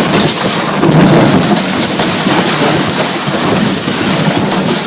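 Loud, steady rushing noise of a boat towed at speed over desert sand, with wind buffeting the microphone.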